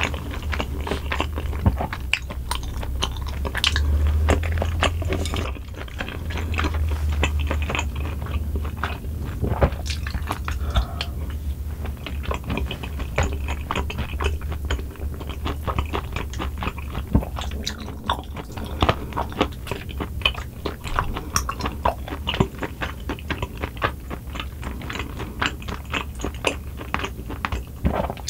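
Close-miked wet chewing and biting of soft, chewy rice cakes and bunmoja in cream sauce, an irregular run of mouth clicks and smacks, over a low steady hum.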